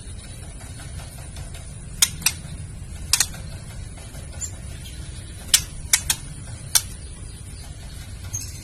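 Female white-rumped shama giving its 'kretekan' call: sharp, dry clicks, singly and in quick pairs, about seven across the stretch, over a steady low hum. It is the female's call used to stir a male shama into calling and breeding excitement.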